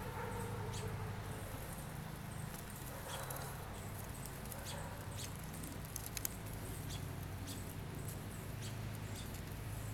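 Baby birds giving short, high-pitched peeps at irregular intervals, over a steady low hum.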